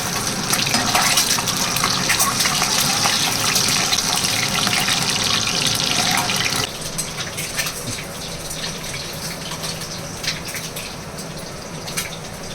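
Water running from a kitchen tap into a sink, shut off abruptly a little over halfway through, followed by scattered light clicks and knocks.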